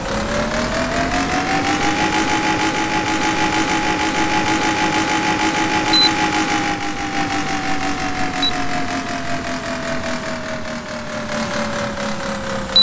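Air conditioner unit running with a motor whine that rises in pitch over the first two seconds, holds steady, then slowly sinks, as the motor speeds up and then winds down. Short high beeps sound about six seconds in, again a couple of seconds later, and at the end.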